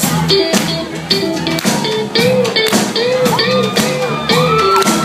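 Rock band playing an instrumental passage: a lead guitar with bent, gliding notes over drums and bass.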